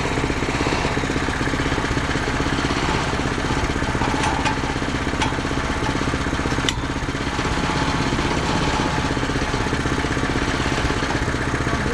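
Gasoline engine of a Mechmaxx SM-22 band sawmill running steadily, with a few faint clicks around the middle.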